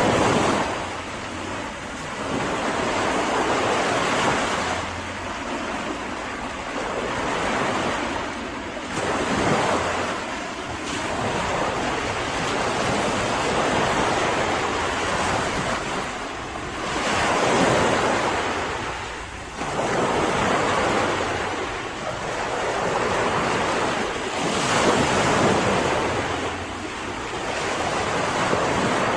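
Mediterranean sea waves breaking and washing onto a beach, the surf rising and falling in surges roughly every four seconds.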